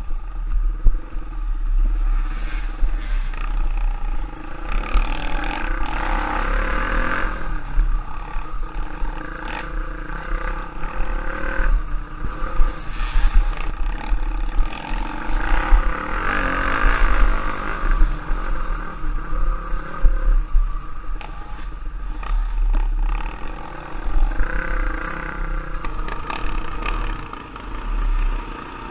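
Off-road trail motorcycle engine running while riding, its note swelling and easing several times with the throttle. Rattles and knocks of the bike over rough ground come through with it.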